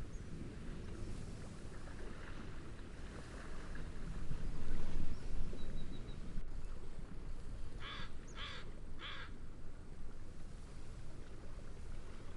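Steady wind and wave noise that swells louder about four to five seconds in, with a bird giving three short harsh calls in quick succession near the end.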